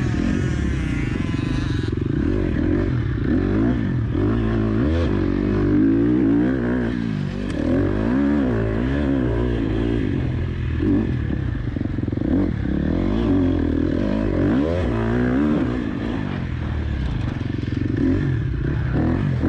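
KTM 250 SX-F's four-stroke single-cylinder motocross engine under riding load, revving up and falling back again and again with the throttle.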